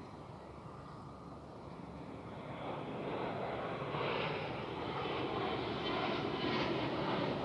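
Airplane engines getting steadily louder as an aircraft approaches, building up noticeably from about two and a half seconds in.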